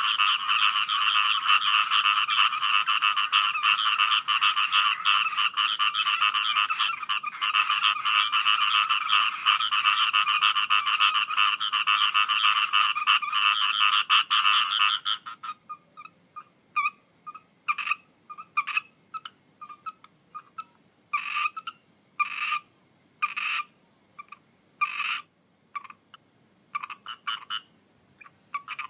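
A chorus of many frogs croaking, dense and unbroken, stops suddenly about halfway through. After that only scattered single calls are left, with short gaps between them.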